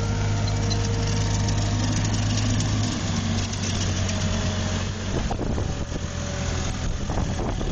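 Diesel engine of a Caterpillar heavy machine running steadily, its low hum easing about three seconds in, with a few short knocks near the end.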